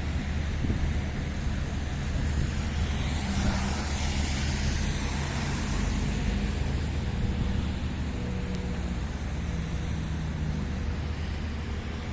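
Road traffic: a steady low rumble of vehicles, with one vehicle passing with a swelling tyre hiss a few seconds in and engine hum afterward.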